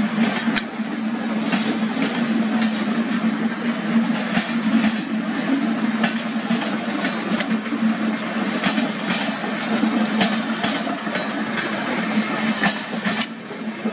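Express train passenger coaches rolling past close by: a steady rumble of wheels on rail with frequent sharp clicks as the wheels cross rail joints.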